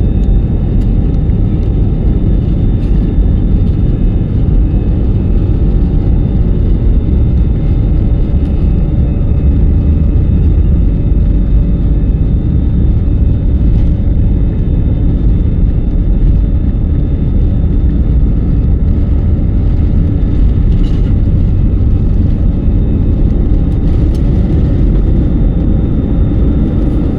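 Steady low rumble of a jet airliner's engines and airflow heard from inside the passenger cabin, with a faint steady whine above it.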